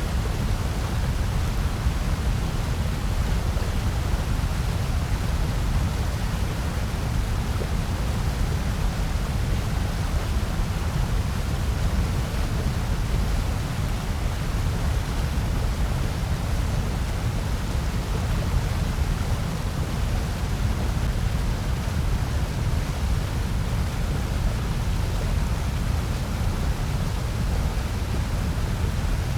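Steady generated noise: an even, unchanging hiss with most of its weight in a deep low rumble.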